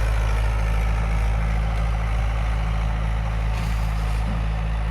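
Tractor engine running steadily with a low, even hum, close to the microphone.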